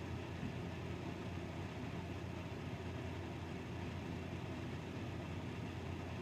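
Steady low hum of room noise, even throughout with no distinct events.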